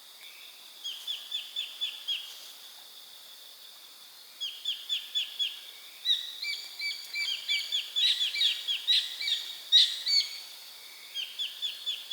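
Wild birds singing: series of quick, short, downward-sliding chirps, several birds overlapping in the middle, over a steady high insect hum.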